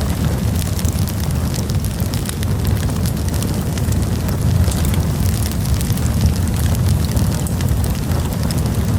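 Campfire burning: a steady low rumble of the flames with frequent small sharp crackles and pops from the burning wood.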